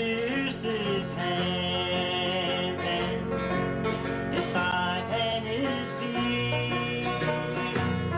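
Country-gospel band playing the song on plucked string instruments, with a bass line stepping to a new note every second or so.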